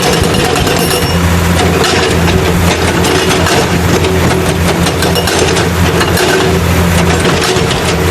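Heavy vehicle engine running: a loud, steady low rumble with rattling on top, the engine sound that accompanies a toy stone-crusher truck.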